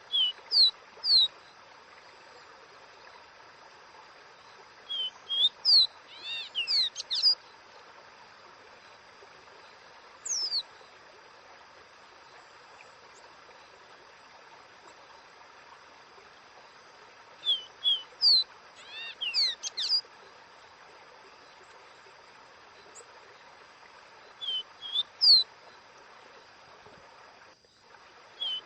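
Caboclinho, a Sporophila seedeater, singing its 'Dó Ré Mi' song. Bouts of a few short, clear whistled notes, some sliding up and some down in pitch, come every few seconds with pauses between, over a steady faint hiss.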